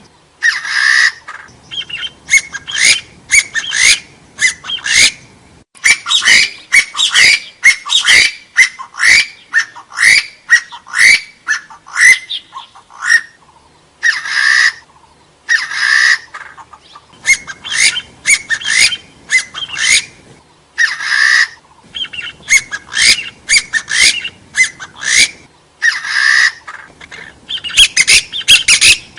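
Hill partridge calling: fast runs of short rising notes, several a second, broken every second or two by a longer harsh note.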